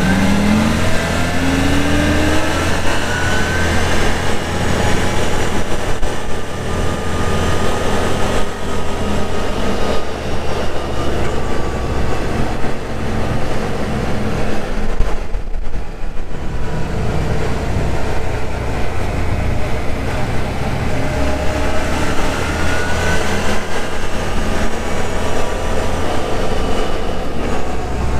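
2023 CFMoto UForce 1000 side-by-side driving on its stock CVT clutch: the engine and drive run steadily, with the pitch rising as it accelerates near the start and again past the middle, and a brief easing off about halfway through.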